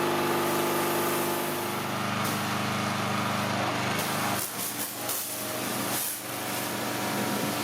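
A small engine-driven machine running steadily. Its pitch shifts about one and a half seconds in, and the sound dips briefly a few times near the middle.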